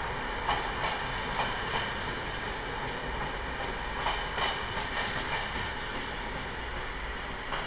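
Trenord double-deck electric train passing on the adjacent track: a steady rolling rumble with wheels clicking over rail joints in quick pairs as each bogie goes by.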